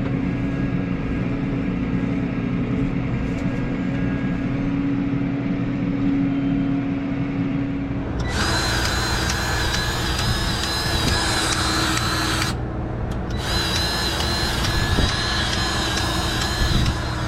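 A steady mechanical hum with a held tone. About eight seconds in, a power tool starts with a high whine and runs for about four seconds, stops for a moment, then runs again for about four more seconds.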